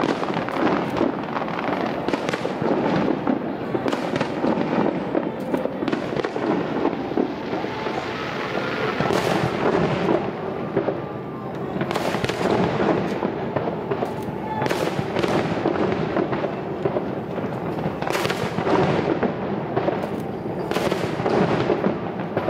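Fireworks display: a dense, continuous barrage of bangs and crackling, with many sharp reports standing out throughout.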